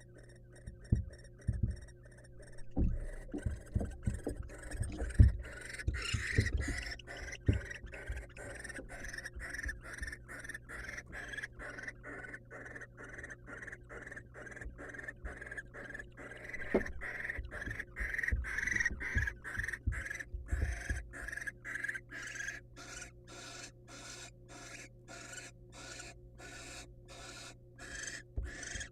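Barn owl giving rasping, hiss-like begging calls, repeated at about two a second from about three seconds in, the typical food-begging call. Dull knocks and scuffles of the owls moving on the nest-box floor come in between.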